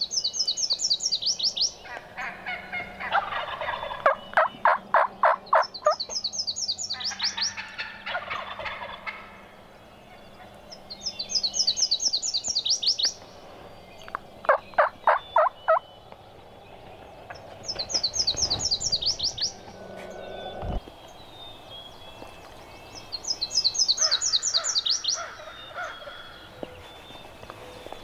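Wild turkeys calling near their roost among dawn birdsong, with loud series of rapid calls. A small songbird's high, fast trill repeats about every five or six seconds.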